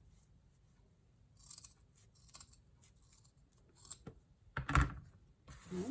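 Scissors cutting through thick craft rope: several short, scratchy snips, then a louder thud near the end.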